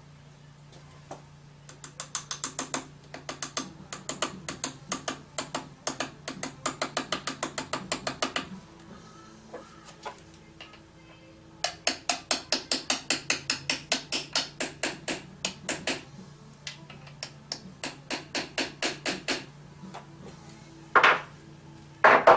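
Rapid metallic clicking from hand tools as a pilot bearing is fitted, about five or six sharp clicks a second in three long runs separated by pauses. Two louder, longer scraping clunks come near the end.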